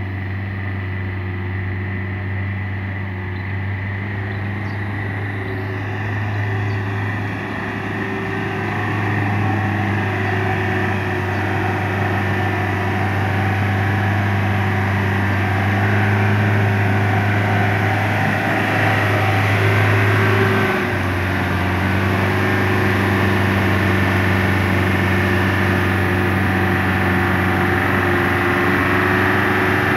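Land Rover Defender's engine pulling up a steep, muddy hill climb: a steady engine note that grows louder as the vehicle draws near. The note breaks briefly about two-thirds of the way through.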